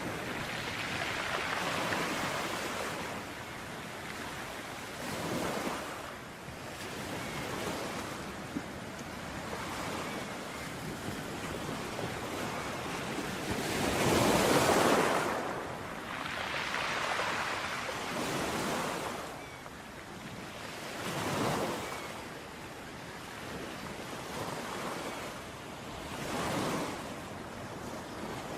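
Sea waves breaking on a shore: surf noise rises and falls in surges a few seconds apart, with the biggest wave about halfway through.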